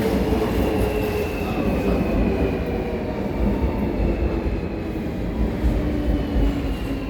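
Busan Subway Line 1 train (new trainset 114) running on the rails, with a low rumble under a motor whine of several tones that slowly falls in pitch as the train slows.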